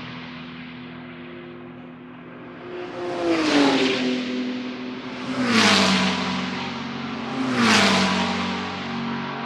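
GT3 race cars passing at speed, three in a row about two seconds apart, the engine pitch dropping as each goes by. A steady engine drone from other cars further along the track runs underneath.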